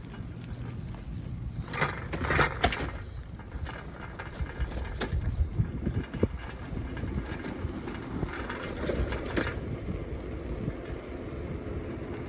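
Wind rumbling on the microphone while riding a bicycle, with knocks and rattles from the bike over the road. There are two louder noisy bursts, one about two seconds in and one about nine seconds in.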